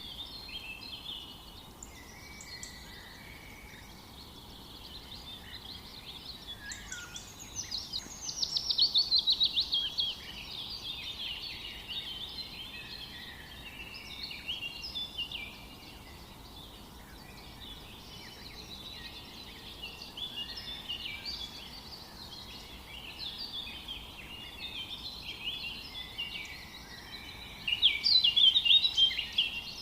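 Birdsong chorus: several birds chirping and warbling without pause over a faint steady hiss. A loud rapid trill falls in pitch about eight seconds in, and another loud burst of rapid notes comes near the end.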